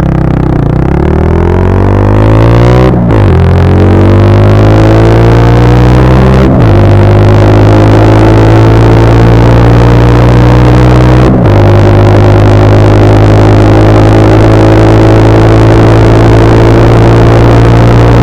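Brixton Cromwell 125's single-cylinder four-stroke engine through an Arrow exhaust with dB killer, accelerating under way. Its pitch climbs in each gear, with short breaks for upshifts about 3, 6.5 and 11 seconds in, and then rises only slowly in the higher gear.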